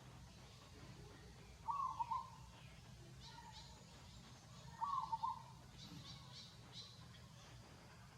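An animal call repeated about every three seconds, each a short call of a few quick pulses, with faint high chirps between.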